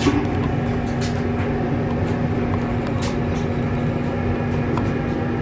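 Model train running along the layout track: a steady running hum and rumble, with a few faint clicks.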